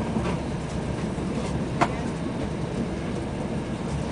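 Passenger train running, heard from inside the carriage: a steady rumble of wheels on rails, with one sharp click a little under two seconds in.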